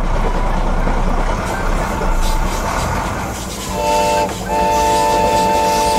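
A steady rushing noise, then a chord-like vehicle horn sounding twice near the end: a short blast and then a longer held one.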